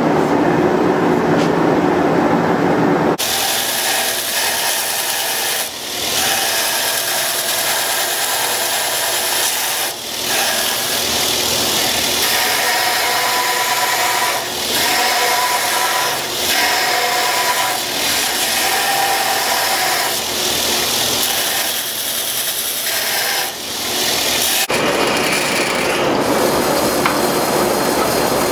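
Power grinder taking stock off a steel machete tang: a loud hissing grind that starts about three seconds in, breaks briefly several times between passes, and stops a few seconds before the end. A lower steady roar runs before and after the grinding.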